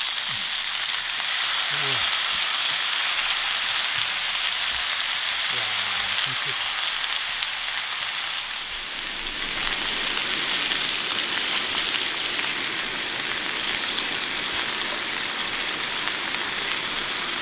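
Pork belly (samgyeopsal) sizzling steadily on a grill over charcoal, an even hiss of fat frying, dipping a little about halfway through.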